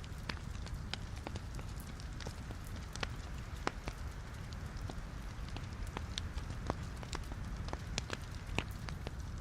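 Wood fire of burning logs in a fireplace crackling: a steady low rush of flame with frequent irregular sharp pops and snaps, a few louder ones scattered through.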